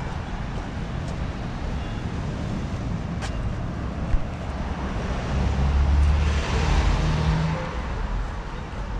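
Street traffic rumbling steadily, with a vehicle passing close by: its engine noise swells a little past the middle and then fades.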